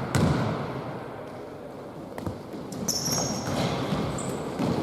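Basketball bouncing on an indoor court: one sharp bounce right at the start, then a few fainter thumps. A few short high squeaks come about three seconds in and again near the end.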